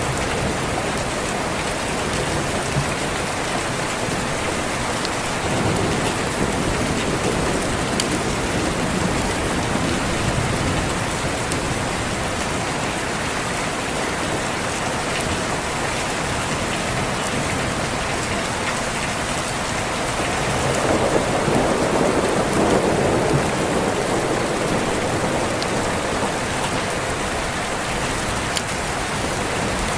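Steady rain falling, with rolling thunder swelling in twice, about five seconds in and again, louder, a little past the middle.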